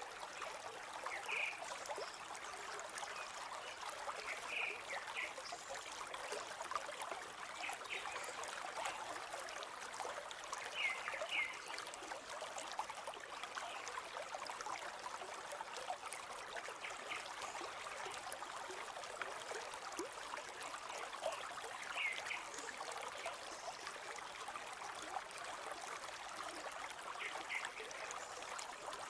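A river flowing steadily, a continuous rushing and trickling of water, with a few short bird chirps now and then.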